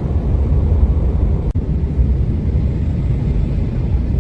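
Steady low rumble of an airplane in flight through a storm, with a brief dropout about a second and a half in.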